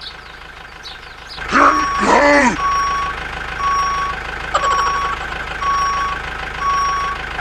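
Vehicle reversing alarm beeping steadily, about one beep a second, over a low engine hum. Just before the beeps start there is a short wavering, voice-like sound.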